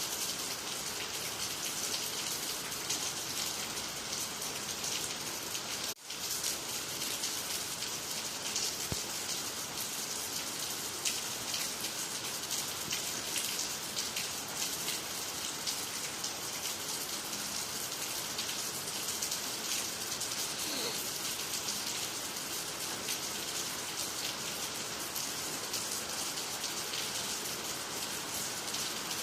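Steady rain falling on water, trees and the ground, an even hiss of many drops. The sound breaks off for an instant about six seconds in, then carries on.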